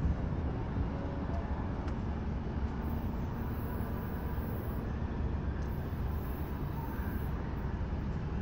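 Steady low rumble of a Brightline passenger train pulling away from the station in the distance.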